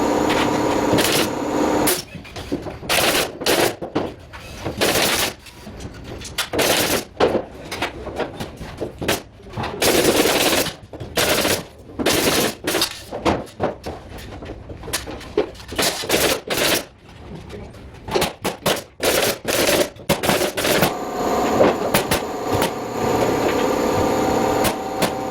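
Pneumatic nail gun firing over and over in quick, irregular runs of sharp shots. A steady hum sits under it at the start and again near the end.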